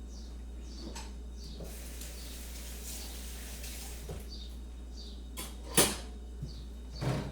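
Kitchen crockery and cutlery clinking: one sharp clink about six seconds in and a short rattle near the end. Small birds chirp in the background over a steady low hum.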